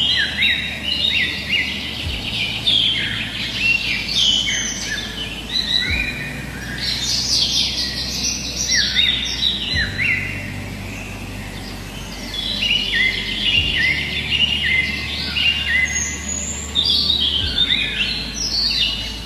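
Several birds chirping and singing at once, with many short overlapping calls and trills, easing off briefly about halfway through before picking up again.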